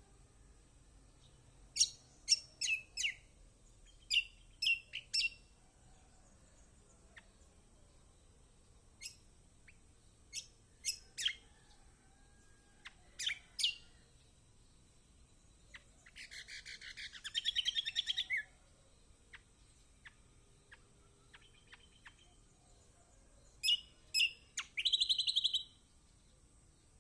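Kecial kombok (a white-eye) calling: groups of short, sharp chirps, broken twice by a fast, buzzy trilled phrase, first about two-thirds of the way in and again near the end.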